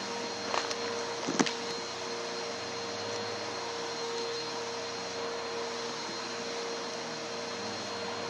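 Vacuum cleaner running steadily, its motor hiss carrying a constant hum, with two sharp clicks a little after the start.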